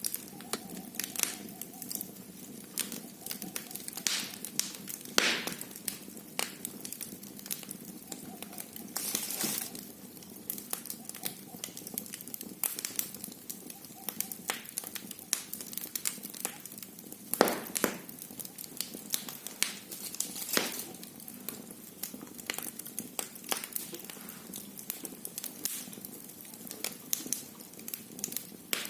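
Wood fire burning in a fireplace, crackling steadily with irregular pops and snaps over a low hiss, a few pops louder than the rest.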